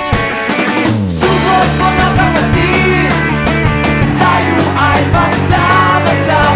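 Background rock music with electric guitar and drums. About a second in, a bass note slides down, and steady bass notes follow under a wavering melodic line.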